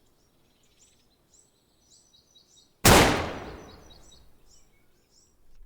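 Small birds chirping in short repeated calls, then about three seconds in a single loud gunshot that cracks and dies away over a second or so.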